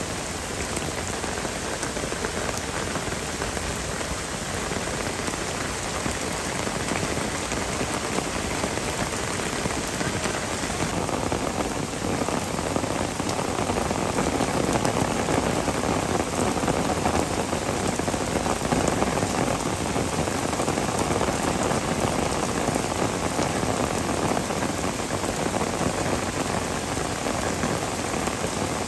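Heavy rain falling steadily in a downpour, getting a little louder about twelve seconds in.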